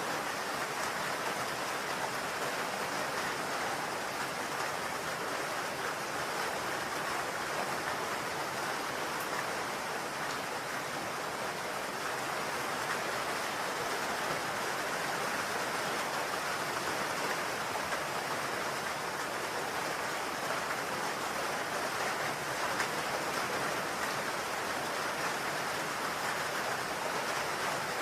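Steady rain falling on a roof, a dense even hiss of drops with no distinct individual strikes.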